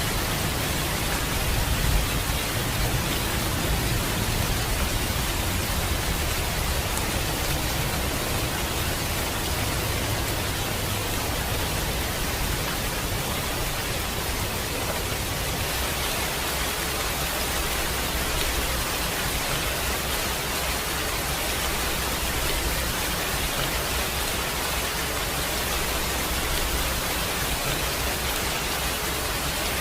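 Steady rain, a dense even hiss with a low rumble beneath it.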